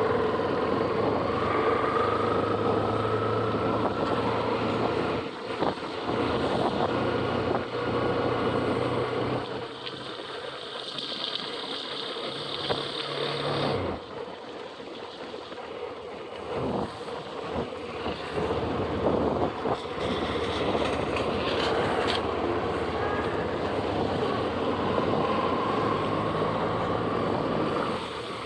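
Motorcycle riding along a highway in the rain: the engine runs steadily under constant wind and road noise. Its pitch rises slowly near the start, and the noise drops sharply about halfway through before building again.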